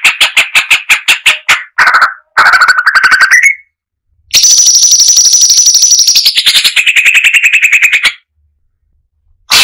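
Cucak cungkok (brown-breasted bulbul) song from a bird-song mastering track: loud, rapid staccato trills of about ten notes a second, in several phrases with short pauses. A long trill begins about four seconds in and drops to a lower pitch about two seconds later. A short gap follows, then one brief burst near the end.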